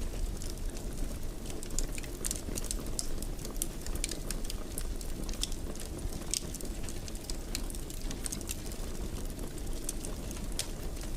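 Fire burning in a fireplace, crackling with irregular short, sharp pops over a steady low rumble.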